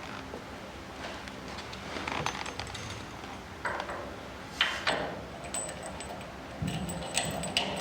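Metal hand tools and bolt hardware clinking and knocking irregularly while a steering rack is bolted into a race-car chassis, with a couple of sharper clanks a little past the middle.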